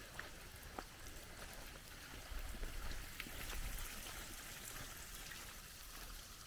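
Faint water trickling and running from a small earthen farm dam that is full and just slightly overflowing, with scattered small clicks. A low rumble swells briefly about two seconds in.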